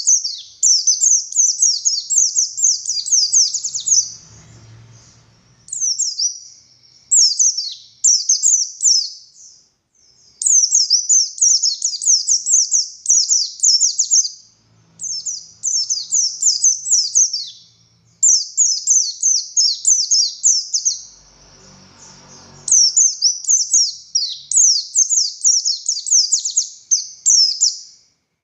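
White-eye (pleci buxtoni) singing in long, rapid phrases of high, sharp descending notes, each phrase lasting a few seconds with brief pauses between.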